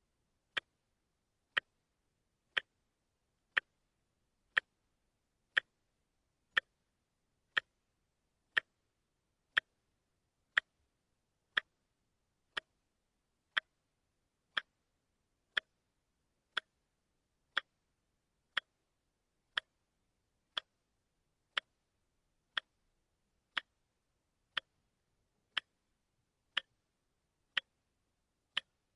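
Watch ticking steadily, one sharp tick each second, with silence between the ticks.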